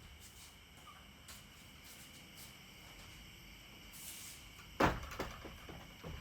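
Insects chirping in a steady high drone. About five seconds in there is one sharp knock, followed by a few lighter knocks and clicks.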